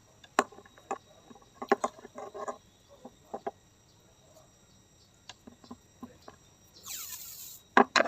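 Irregular sharp clicks and knocks of small hard parts being handled, some in quick clusters. About seven seconds in there is a short hiss whose pitch falls, then two loud clicks at the very end.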